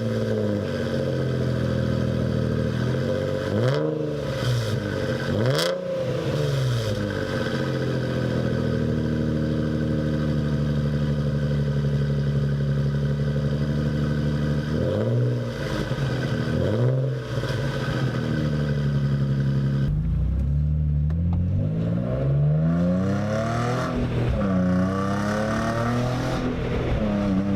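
Nissan VQ35 3.5-litre V6 breathing through a cheap $200 eBay aftermarket exhaust: it idles with several short throttle blips, with a sharp crack in one of the early blips. Near the end the revs climb, dip and climb again.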